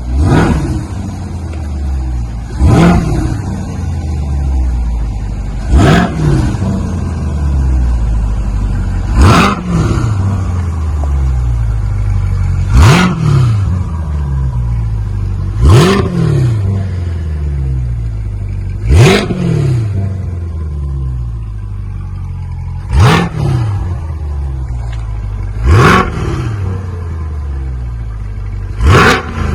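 2021 Chevrolet Corvette Stingray's 6.2-litre LT2 V8 blipped to high revs about ten times, roughly every three seconds, settling back to idle between blips, through the stock factory exhaust and muffler.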